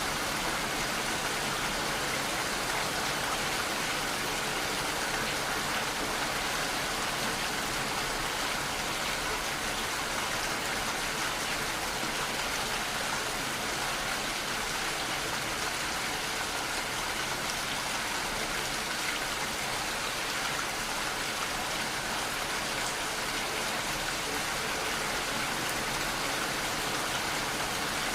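Steady rainfall: an even hiss of rain that does not change, with no thunder.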